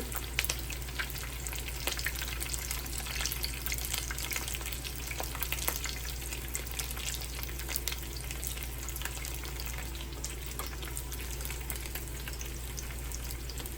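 Beef-filled tortilla tacos frying in hot oil in a pan: a steady sizzle with constant fine crackling and popping.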